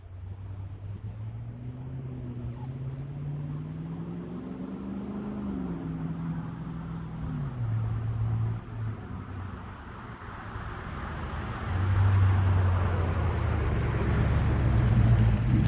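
Car exhaust through a Flowmaster 50 Series muffler on a drive-by. The engine note climbs as the car accelerates, drops around six to seven seconds in, then gets much louder from about twelve seconds as the car comes close.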